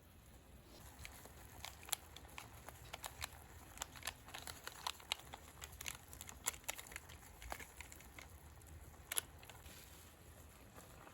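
Wood campfire crackling: irregular sharp pops and clicks, a few a second, with one louder pop about nine seconds in, over a faint low rumble.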